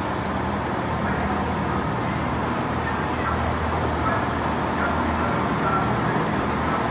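Road traffic with a motor vehicle engine running steadily, a constant low hum under the noise of the street.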